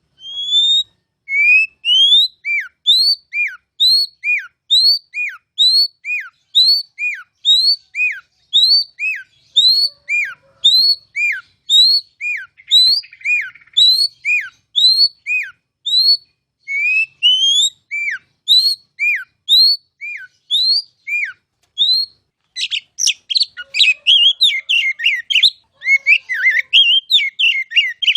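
Oriental magpie-robin (kacer) singing loud, clear whistles: the same two-note phrase, a rising note then a falling one, repeated steadily over and over. This is the ngeplong song style. Near the end it breaks into a faster, jumbled run of short twittering notes.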